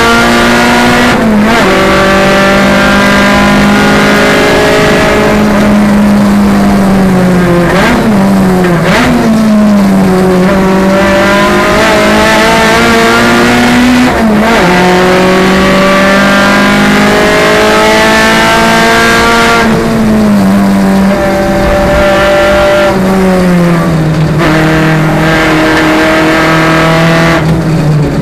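Renault Clio Sport race car's 2.0-litre four-cylinder engine, heard from inside the cabin under hard acceleration. The pitch climbs steadily with a quick dip at each upshift, then in the second half falls in steps as the car brakes and downshifts for corners.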